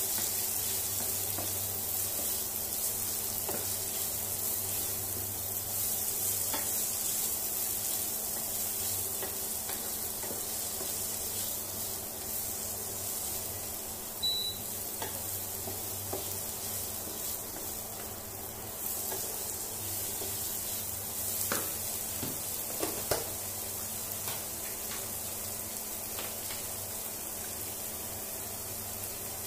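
Chopped red onion and garlic sizzling in butter in a nonstick frying pan while being stir-fried with a wooden spatula. The spatula scrapes and taps against the pan now and then, a few times around three-quarters of the way through.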